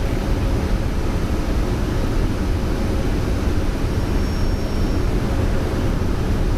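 Steady airflow and engine noise on the flight deck of a Boeing 747-200 on final approach, gear down and flaps set, heard from inside the cockpit. A faint high tone sounds briefly about four seconds in.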